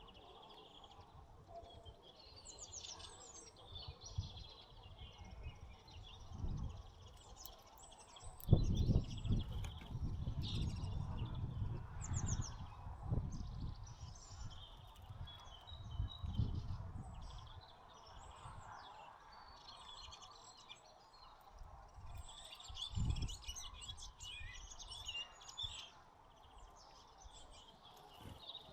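Sparrows and tits chirping and calling in quick, overlapping notes. Low rumbles come and go beneath them, the loudest about a third of the way in.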